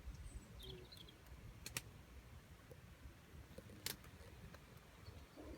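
Quiet outdoor ambience: a low wind rumble, a few faint bird chirps in the first second, and three sharp clicks, two close together near the middle and the loudest about four seconds in.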